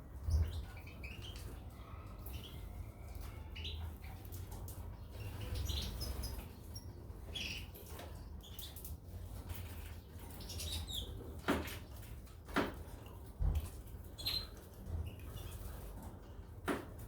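Caged goldfinches and canaries giving short, scattered chirps, with wing flutters and a few sharp clicks as the birds move about the cage, over a steady low hum.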